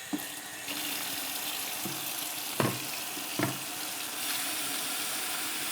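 Kitchen tap running steadily into a blocked sink, filling it with water before it is plunged, with two short knocks in the middle.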